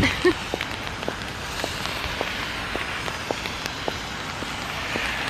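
Rain falling steadily, with footsteps on wet pavement at a walking pace, a little under two steps a second.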